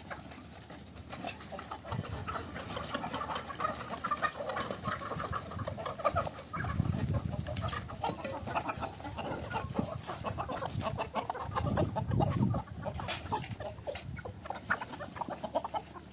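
A flock of domestic baladi chickens clucking continuously, with two short low rumbles partway through.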